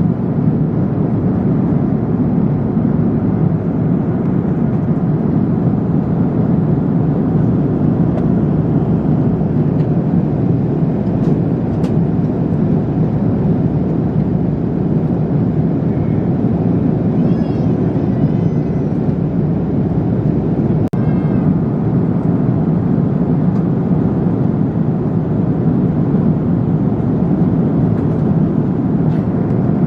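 Steady roar of a jet airliner's cabin in flight: engine and airflow noise, strongest in the low range, with a few faint clicks.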